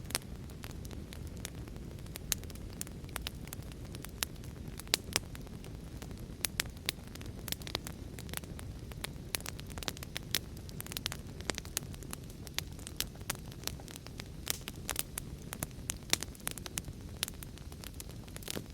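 Wood fire crackling, with frequent irregular sharp pops, over a steady low rush of heavy rain.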